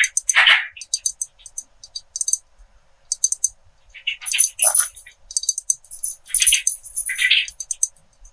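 Pens tapping, clinking and rattling against glass in short irregular clusters, some with a bright glassy ring and some with a brief scratchy rattle.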